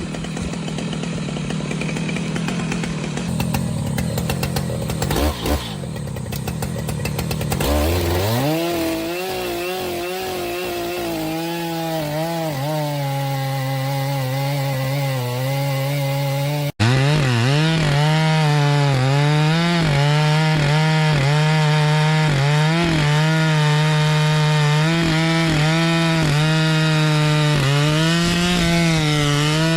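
Two-stroke chainsaw running at high revs while cutting through wood, its engine pitch dipping and recovering again and again as the chain bites. For the first several seconds there is only a rougher noise with no clear pitch.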